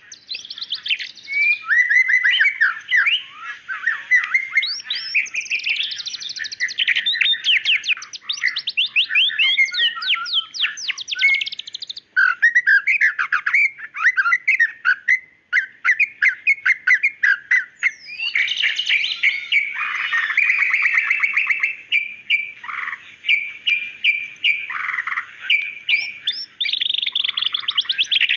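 White-rumped shama (murai batu) singing continuously: a fast, varied string of whistles, trills and rapid runs of repeated notes with hardly a pause.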